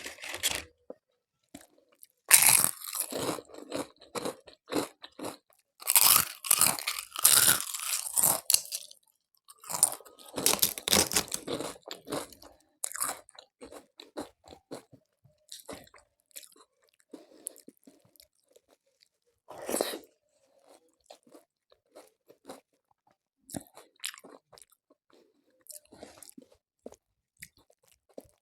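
Crisp papad being bitten and chewed close to the microphone: loud bouts of crunching and crackling in the first half, then quieter, sparser chewing.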